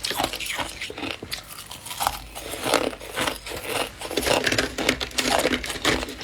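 Soft, fluffy freezer frost crunching and crinkling in quick, irregular crackles, with a few louder crunches in the second half.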